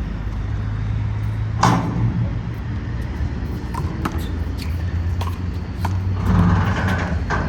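Sharp slaps of a handball being struck, scattered irregularly over a steady low rumble of city traffic. The loudest slap comes about a second and a half in.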